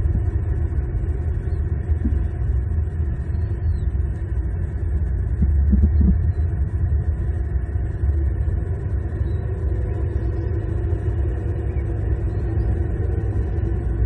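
Steady low rumble of outdoor ambience on the nest-cam microphone, with a few faint high chirps and soft knocks.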